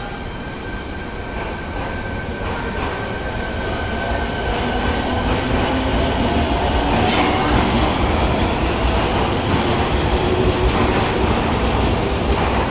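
Fukuoka City Subway 1000 series electric train pulling away and accelerating, its wheels running on the rails, growing louder as it passes. A faint motor whine rises in pitch.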